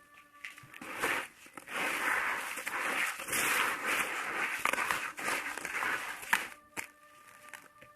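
Dry moulded sand bowl being smashed and crumbled into grainy sand: a sharp crack about a second in, then about five seconds of dense, gritty crunching and crumbling with many small clicks and one sharp snap near the end.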